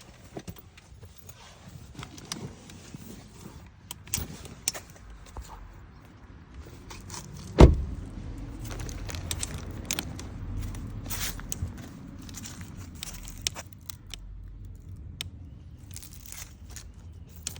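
Keys jangling with small clicks and knocks of handling, and one loud thump about eight seconds in, followed by a low rumble.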